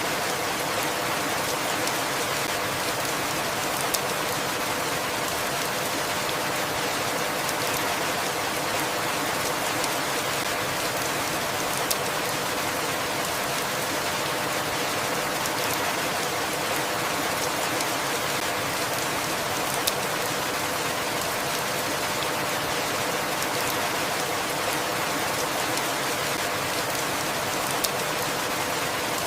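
Steady rain: an even, unbroken hiss of rainfall with a sharper drop tick about every eight seconds.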